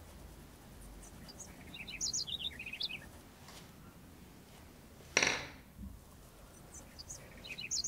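A small bird singing: a quick run of short, high chirps about two seconds in, repeated near the end. One sharp, short clack a little after five seconds.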